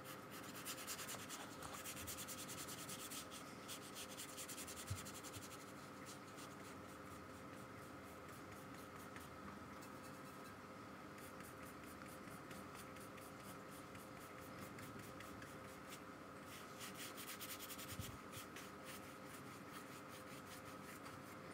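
Paintbrush scrubbing gouache onto sketchbook paper: a faint, rapid scratchy rubbing of many short strokes, busiest in the first few seconds and again near the end, with a soft knock about five seconds in and another near the end. A faint steady hum lies underneath.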